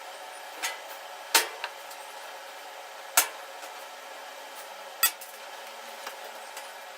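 Sharp metallic knocks and clanks, about four main ones a second or two apart with a few lighter taps, from metal parts or tools being handled or struck, over a steady hiss.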